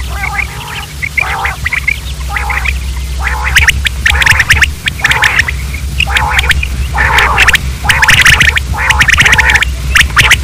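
Quail calling repeatedly: a run of short, harsh, raspy calls about one a second, over a steady low hum.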